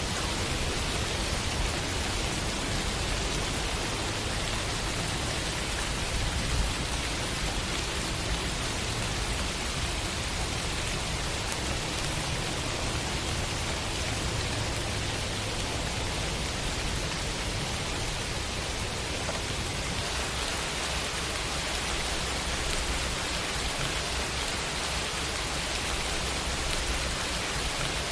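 Steady rain, an even unbroken hiss with a low rumble underneath.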